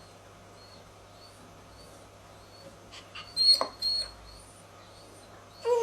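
African grey parrot making non-verbal sounds: faint short high peeps, then about halfway through a burst of sharp clicks and two short high whistles.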